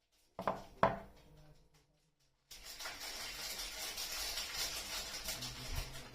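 Two sharp taps of hard objects being set down, close together, then from about two and a half seconds in a steady crinkling and rustling of soap wrapping being handled.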